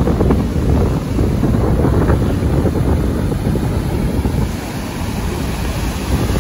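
Strong onshore wind buffeting the microphone in a loud, rough rumble, with ocean surf breaking behind it.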